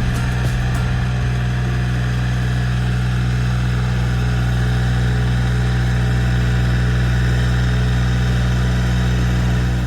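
Engine of a walk-behind tiller running at a steady speed, with no change in pitch.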